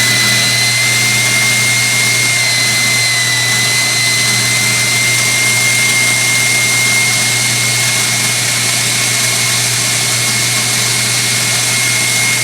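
KitchenAid Artisan stand mixer motor running at speed with a steady high whine over a rough, grinding noise. The owner places the grinding where the brushes are and suspects a bad armature or a bad bearing.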